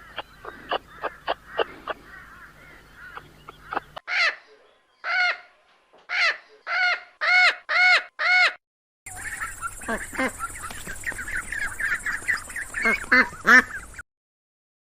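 Waterfowl calling in three cut-together takes: a quick run of short calls, then about eight rising-and-falling calls that grow louder, then a dense stretch of many short calls that stops abruptly near the end.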